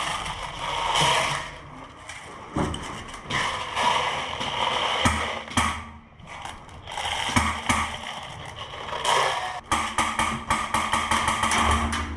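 Airsoft guns firing in repeated bursts: a rapid mechanical clatter of sharp clicks and pops, packed densest over the last few seconds.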